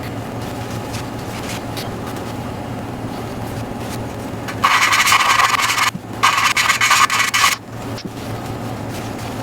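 An intake valve on a 2004 BMW 325xi cylinder head being lapped into its seat with grinding compound, the suction-cup tool twisted back and forth: a gritty rubbing that grows loud in two bursts near the middle. A steady low hum runs underneath.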